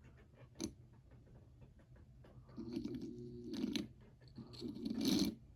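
Old band-drive model train locomotive's electric motor buzzing and grinding in two bursts as power is applied, over a low steady hum. It is straining without turning the wheels, a sign that the long-unrun engine needs lubrication and possibly new drive bands.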